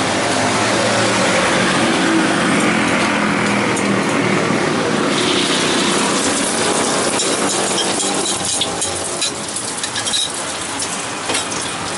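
Beaten egg and tofu poured into hot cooking oil in a wok, sizzling. The hiss jumps up sharply about five seconds in as the mixture hits the oil, then settles into crackling and popping fat.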